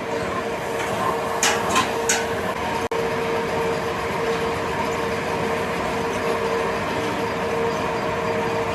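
Steady running of factory machinery, a constant hum with a steady tone, broken by three short high hissing or scraping sounds about a second and a half in.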